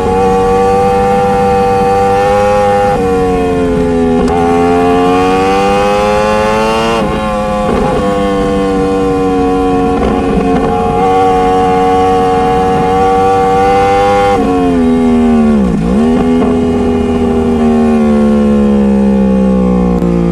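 Motorcycle engine running while ridden. Its pitch climbs slowly through each gear and drops abruptly at each of three gear changes. After the last one the pitch dips deeply, then settles lower.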